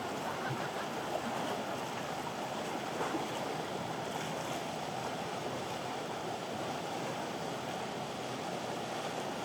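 Steady rushing wash of surf and moving water.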